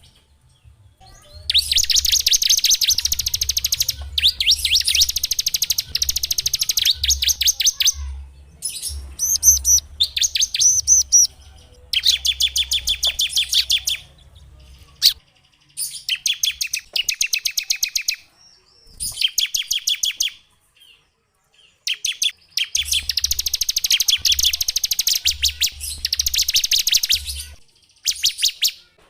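Small songbird singing in rapid trills of quickly repeated high notes, in phrases from about one to six seconds long with brief pauses between them.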